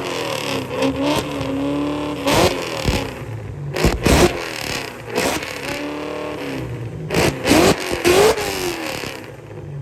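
Fox-body Mustang engine revved hard again and again through a loud exhaust, its pitch sweeping up and falling back with each blip. It settles back toward idle near the end.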